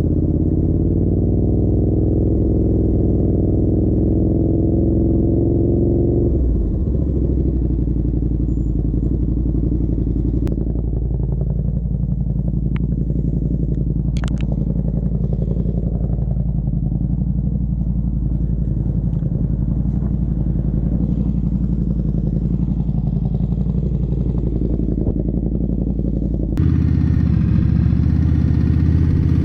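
Motorcycle engines running while riding. For the first six seconds the engine rises slowly in pitch as it pulls, then the sound changes abruptly to a steadier engine drone with a few sharp clicks, and changes again near the end.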